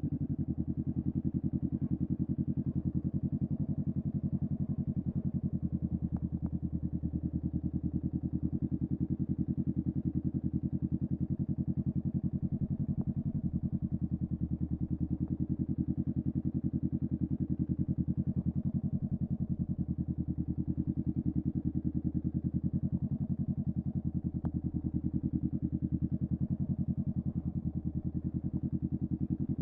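Honda Rebel 500's 471 cc parallel-twin engine through a Vance and Hines upsweep exhaust, running steadily with an even, low pulsing beat and no revving.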